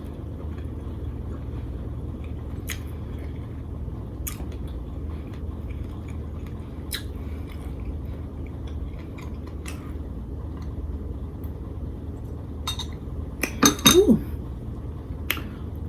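Close-miked eating: chewing lobster tail with scattered sharp clicks and taps, over a steady low hum. A louder cluster of clicks comes near the end.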